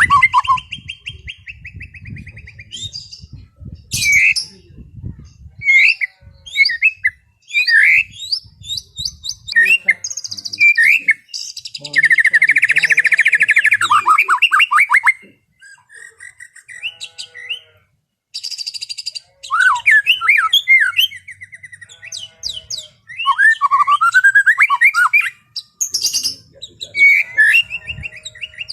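White-rumped shama (murai batu) singing a long, varied song of clear whistles, chirps and pitch sweeps, with a loud, fast trill about halfway through.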